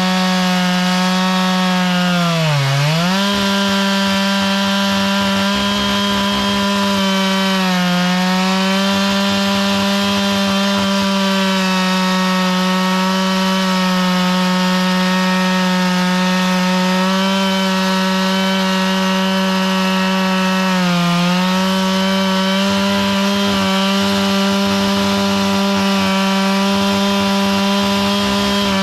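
Chainsaw held at high throttle while milling wood, its engine pitch steady except for brief drops about three seconds in, around eight seconds and near twenty-one seconds, where it bogs under load in the cut.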